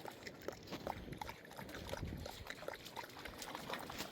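Faint, irregular splashing and sloshing of a dog wading through shallow floodwater.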